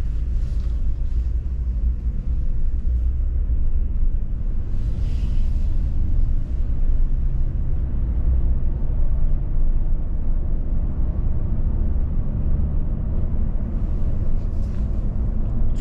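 A car driving at road speed, with the steady low rumble of engine and tyres on the road. Brief rushes of hiss rise and fade three times.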